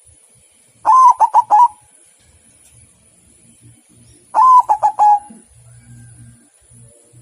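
Zebra dove (perkutut), a white one, singing: two short phrases of rapid staccato cooing notes, about three and a half seconds apart.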